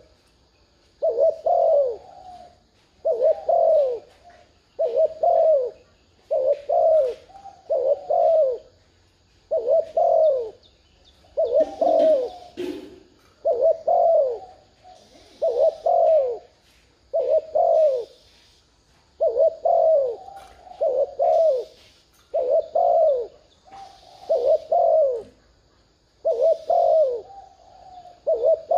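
Spotted dove cooing over and over: short coos, often paired, about one a second with brief pauses between. These are the rapid 'gù' coos used to provoke a decoy dove into cooing.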